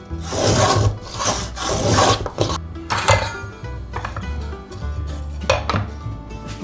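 A hand tool worked in strokes across wood, rasping or scraping, in about five irregular passes, most of them in the first couple of seconds.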